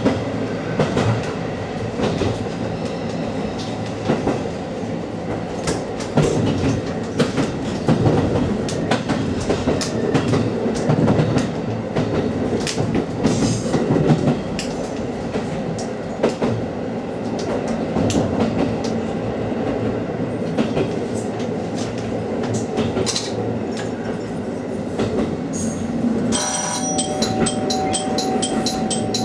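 A diesel railcar running, heard from the driver's cab: the engine runs under wheel clatter and clicks over rail joints and turnouts, with some wheel squeal. Near the end a steady ringing tone with a regular beat starts, like a warning bell.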